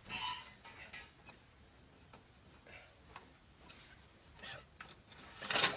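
Faint scraping and light clicks of tyre-changing work with a car jack and wheel tools, building into a louder rasping scrape near the end.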